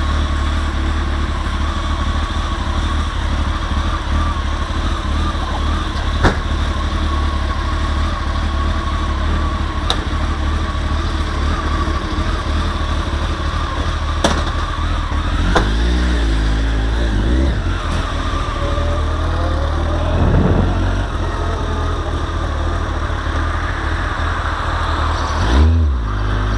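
Kawasaki ZZR 1400 inline-four engine running, picked up by a camera mounted on the motorcycle, with a heavy steady low rumble. The engine pitch rises and falls in revs about two-thirds of the way through and again near the end.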